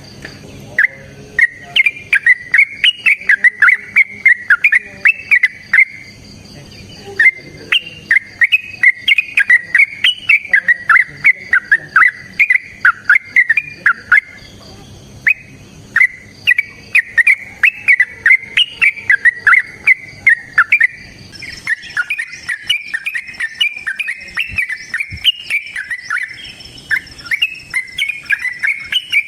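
Yellow-vented bulbul (trucukan) singing long, fast runs of short chattering notes, phrase after phrase with brief pauses between. This is the excited 'gacor ropel' song used to lure and tutor other trucukan. A faint steady high-pitched hum lies underneath.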